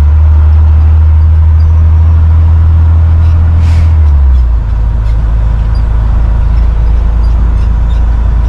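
Truck engine droning steadily while driving, its low note dropping about four and a half seconds in as the engine speed changes. A short hiss of air sounds just before the drop.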